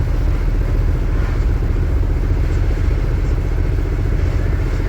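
A vehicle engine running: a steady, heavy low rumble with an even pulsing beat.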